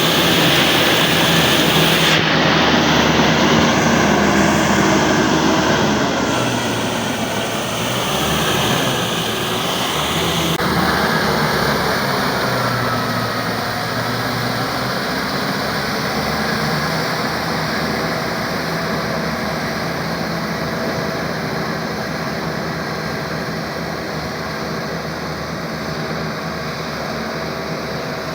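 A 70 hp FM World diesel tractor engine running steadily while working a flooded rice paddy. The drone shifts abruptly a few times in the first ten seconds.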